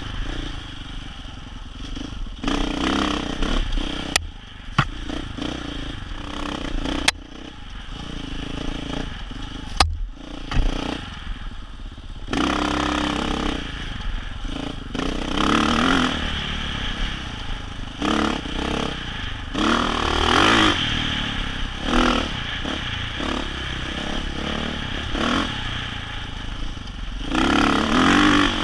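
Dirt bike engine revving up and easing off again and again while riding rough single track, with clatter and a few sharp knocks a few seconds in.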